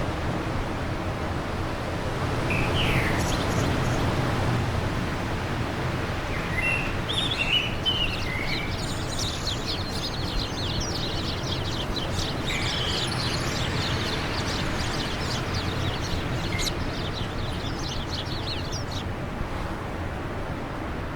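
Steady wind with birds chirping over it; the calls start a couple of seconds in, thicken into a quick run of short chirps through the middle, and stop near the end.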